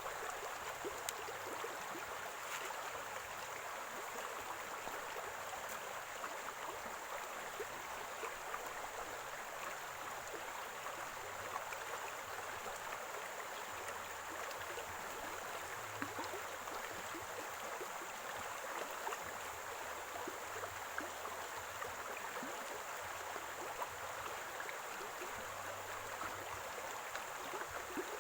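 Running water of a small spring-fed stream, gurgling and splashing steadily with many small droplet ticks, and a thin steady high-pitched tone above it.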